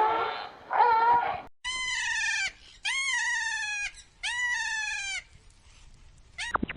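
An animal calling: three drawn-out cries, each rising and then falling in pitch, with short gaps between them. A quick string of short, sharp sounds starts near the end.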